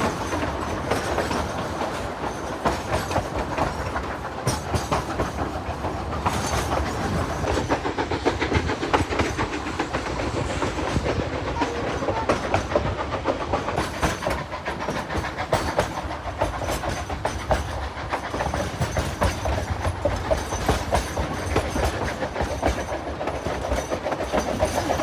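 Narrow-gauge passenger train rolling along: a steady clickety-clack of wheels over the rails with a rapid rattle of the cars over a constant rumble.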